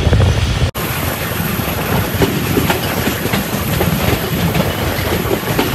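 Train running on the rails: a steady rumble with many short clicks of wheel clatter over the track. The sound breaks off for an instant just under a second in.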